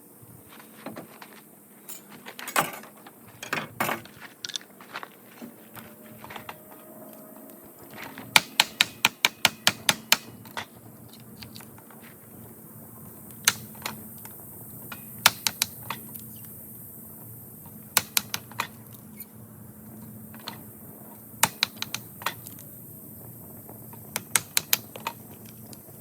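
Irregular runs of sharp clicks and taps, some in quick bursts of several a second, over a faint steady hum.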